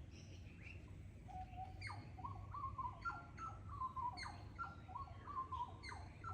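Wild birds in Australian bush calling: a rapid run of short whistled notes, each starting with a quick downward flick, begins about a second in and repeats several times a second until near the end, with fainter high chirps above. A steady low rumble lies underneath.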